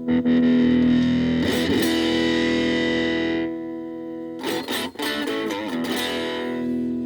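Gaban Les Paul-type electric guitar played through a VOX Soundbox Mini amp: chords strummed and left to ring, with fresh strums about a second and a half in and again about four and a half seconds in.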